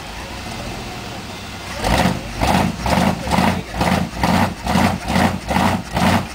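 Monster truck engine running steadily, then from about two seconds in a loud regular pulsing starts, a little over two pulses a second.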